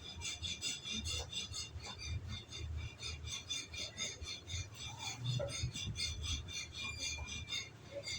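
Many small birds chirping in chorus: rapid, overlapping high chirps, several a second, without a break.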